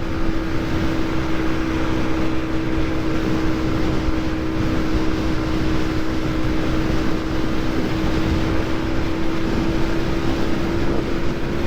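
Motorcycle engine running at a steady pitch while cruising at about 80 km/h, with wind rushing over the camera's microphone.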